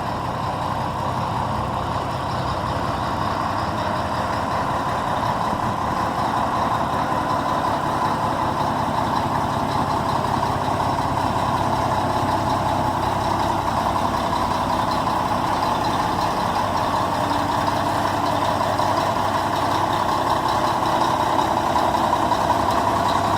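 Scania T113 360 truck's 11-litre straight-six diesel running steadily at idle, growing gradually a little louder.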